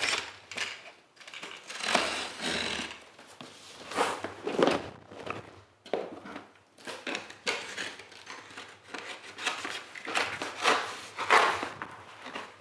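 Cardboard shipping box being opened and handled: a series of irregular scrapes and rustles.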